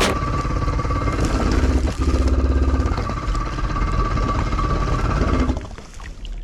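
Kawasaki ZXi 1100 jet ski's two-stroke engine running, with a stretch of quick even pulsing about two seconds in; the sound fades out near the end.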